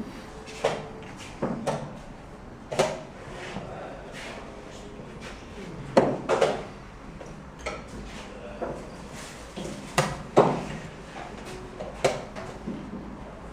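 Sharp wooden knocks of chess pieces being set down on a board during a fast game, about a dozen irregular strokes, some in quick pairs.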